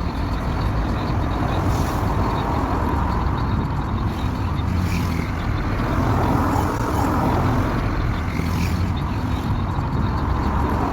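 A car driving steadily: continuous engine and road noise.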